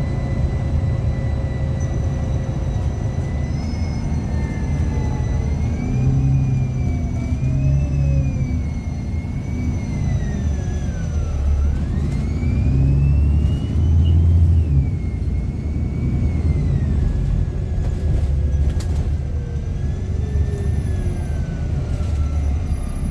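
A bus engine and driveline heard from inside the moving bus: a heavy low rumble with whining tones that rise and fall as it pulls away and eases off, loudest about two-thirds of the way through. The engine noise is also fed through the bus's on-board speaker.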